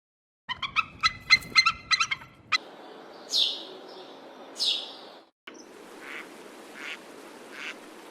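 Bird calls in short pieces cut together: a rapid rattling run of notes, then two loud, high, sliding calls about a second apart, then fainter repeated calls.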